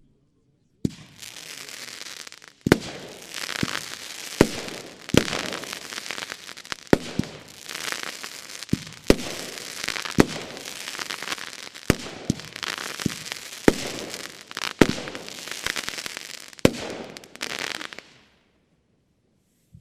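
Geisha Knisterblume, a 30 mm, 11-shot consumer firework battery, firing: sharp bangs come roughly every second, with dense crackling between them from its crackle effects. The crackling dies away near the end.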